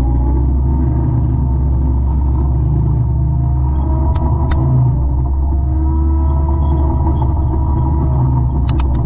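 200-horsepower forestry mulcher's diesel engine running steadily with a low drone, with a few sharp clicks: two about four seconds in and a quick cluster near the end.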